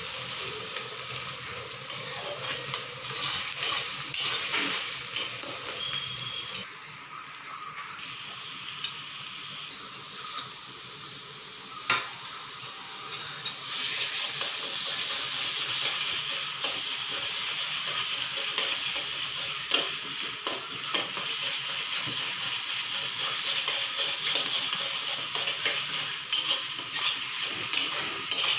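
Chopped onion and bay leaves sizzling in hot oil in a wok, with a spatula scraping and clicking against the pan as they are stirred. The sizzle drops for a few seconds around the middle, then comes back louder and steadier.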